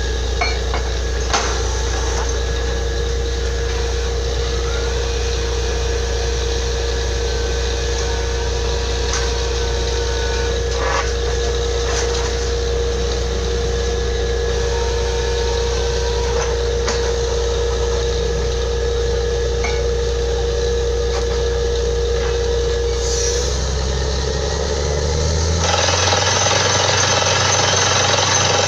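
Borewell drilling rig running steadily with a low engine hum and a held mid-pitched whine. Near the end the whine stops, the hum drops, and a louder, harsher rattling noise takes over as the drill's hammering picks up.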